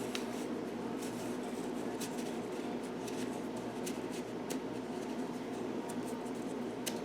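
Cardstock and paper panels being handled, with light rustling and scattered small clicks, over a steady background hum.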